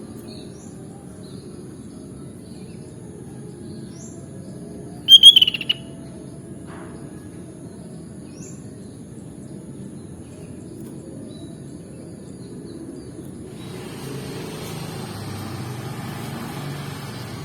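Sooty-headed bulbul giving one short, loud burst of calls about five seconds in, with a few faint short chirps around it. A low background rumble runs underneath, and a steady hiss comes in near the end.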